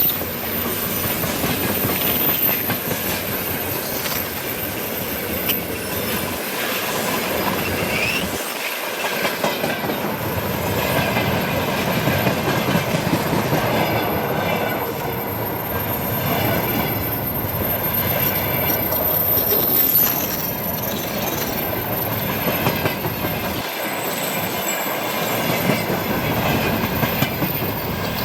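A freight train's wagons rolling past, with a steady clatter of wheels over the rails and faint high-pitched wheel squeal.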